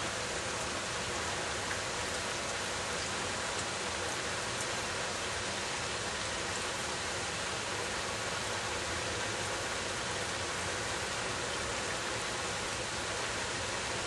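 Steady rainfall: an even, unbroken hiss of rain with a few faint drop ticks.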